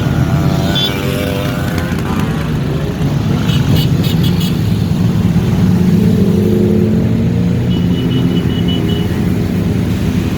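Motorcycle engines of a riding convoy running over a continuous low rumble, with engines rising in pitch in the first couple of seconds. A few short high chirps and a brief steady high tone sound over it.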